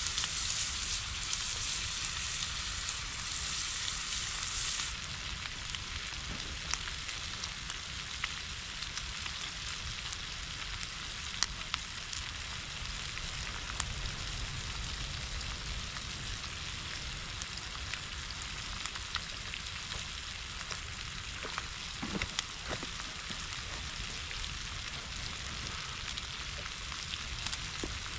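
Food frying in a pan, sizzling steadily with scattered small pops; the sizzle is louder for the first five seconds or so, then settles a little lower.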